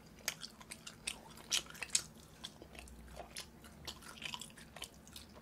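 A person chewing boneless braised chicken (jjimdak) close to the microphone: irregular short clicks and smacks from the mouth, a few louder ones about a second and a half in.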